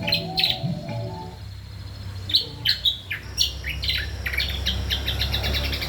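A songbird kept as a kombok singing: sharp whistled chirps that drop steeply in pitch, then from about halfway a fast run of short clipped notes. Over a low steady hum, with the tail of a musical intro fading out in the first second.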